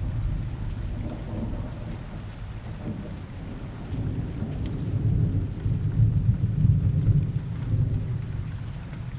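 Rain ambience with a low rolling thunder rumble over a faint hiss of rain; the rumble swells again about four seconds in.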